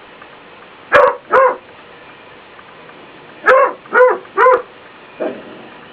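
Dog barking: two barks about a second in, then three more in quick succession a couple of seconds later, and a softer, lower bark near the end.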